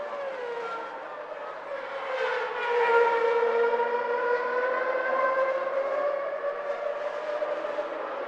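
1991 Formula One car engine running at high revs: one pitched engine note that dips, swells louder about three seconds in, then holds and drifts slowly in pitch.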